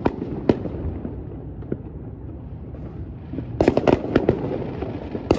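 Fireworks going off, many of them: sharp bangs and crackles over a constant low rumble of distant explosions, with a cluster of bangs about three and a half to four and a half seconds in.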